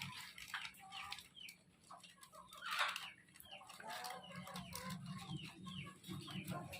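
Chickens clucking, with many short bird calls, one of them louder about three seconds in.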